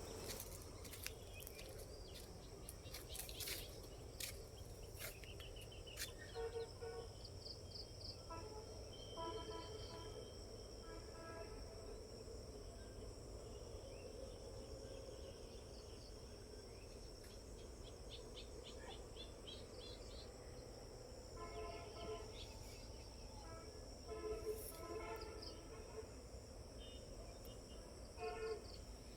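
Faint outdoor nature ambience: a steady high-pitched insect drone with bird calls scattered through it, sharp chirps in the first few seconds and short repeated calls in clusters later.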